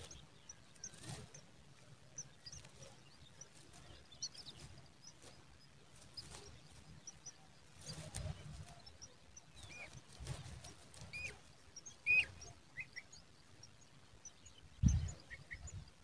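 Faint, scattered short bird chirps and twitters, with a few louder chirps about ten to thirteen seconds in. Occasional low thuds are heard alongside.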